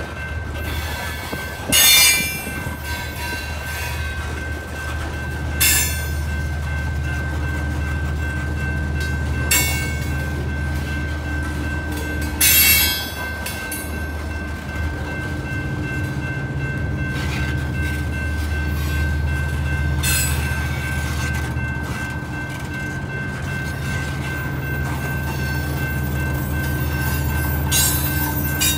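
Long Norfolk Southern coal train rolling past with a steady low rumble. Short, high-pitched wheel squeals cut in about seven times, loudest about two seconds in and again near the middle, over a thin steady high tone.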